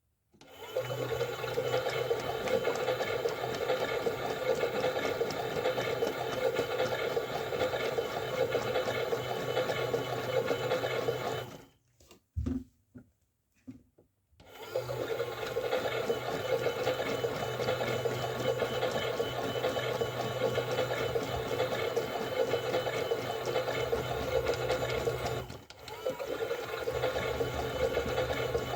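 Toy washing machine running a 40° wash cycle: a steady motor hum with water in the drum. It stops for about three seconds, with a few small clicks, about twelve seconds in, then starts again.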